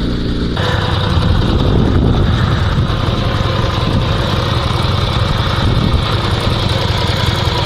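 Dnepr MT-16 sidecar motorcycle's flat-twin engine running steadily under way, with an abrupt change in the sound about half a second in.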